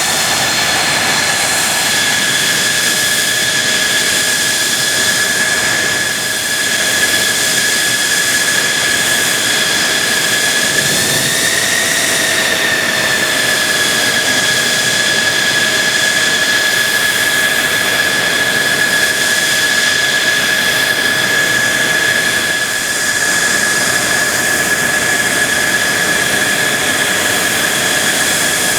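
Mitsubishi F-2 fighter's jet engine running steadily at low power, a high steady whine over a rushing noise, with a brief small rise and fall in pitch about eleven seconds in.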